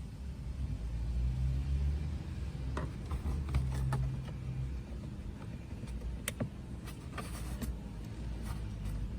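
Suzuki Every van's engine running with a steady low rumble, louder in the first few seconds. Scattered sharp clicks and knocks come through over it.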